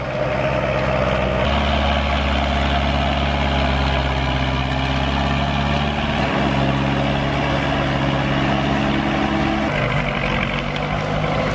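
Heavy diesel machine engine running at a steady speed, its pitch and load shifting a few times.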